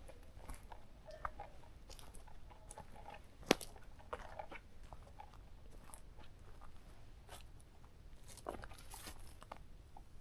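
Footsteps crunching irregularly on the forest floor, with one sharp, louder snap about a third of the way in.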